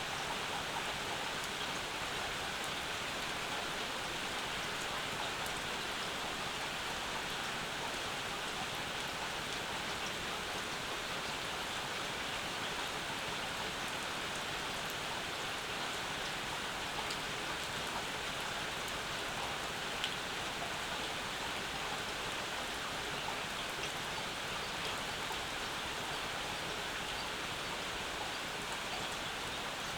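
Steady summer rain falling, with the patter of scattered drops and one brief louder click about two-thirds of the way through.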